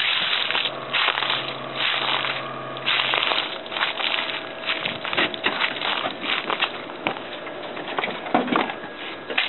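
Car engine idling a little low, under a rough wash of noise with many irregular clicks. A steady low hum stops about three seconds in.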